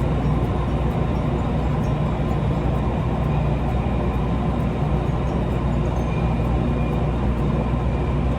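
Steady running noise heard inside the cabin of a moving electric commuter train: a continuous low rumble of wheels on rail and car body.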